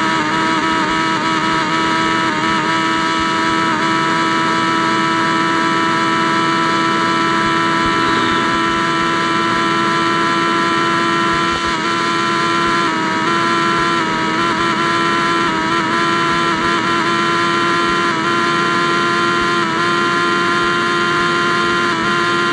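Yamaha XJ6's inline-four engine running through an open straight pipe with no muffler, holding steady revs in a constant drone.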